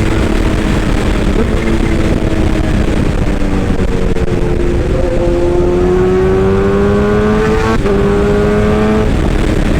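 Excavator diesel engine running steadily. About five seconds in its pitch climbs slowly, then drops suddenly just before the eight-second mark.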